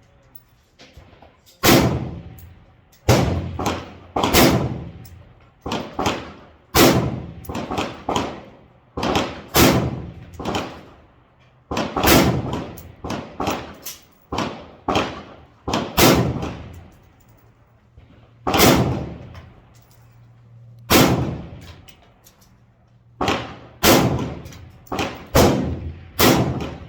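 A string of about twenty 5.56 rifle shots from an M4-clone AR-15, fired one at a time at uneven intervals of roughly one to two seconds. Each shot is a sharp crack with a brief echoing tail, and some shots are louder than others.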